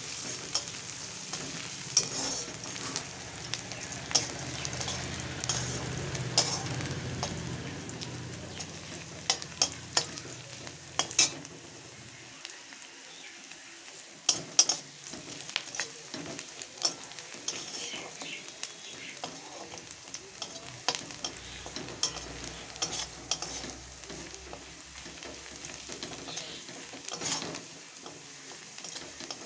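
Sliced onion, chopped garlic and dried red chillies sizzling in hot oil in an aluminium kadai, while a metal spatula stirs them with repeated sharp scrapes and clicks against the pan.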